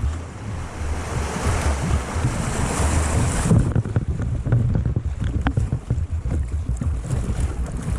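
Rushing whitewater of river rapids, with wind buffeting the microphone in a heavy low rumble; the hiss of the water eases about halfway through.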